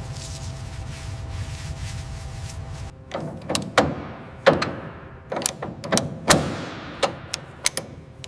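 A steady low hum, then from about three seconds in an irregular run of a dozen or so sharp knocks, each ringing out briefly.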